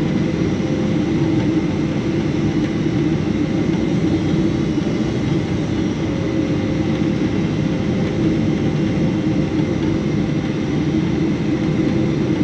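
Steady jet cabin noise inside a Boeing 777-300 airliner: a loud, even rumble of the engines and airflow with a faint steady whine on top.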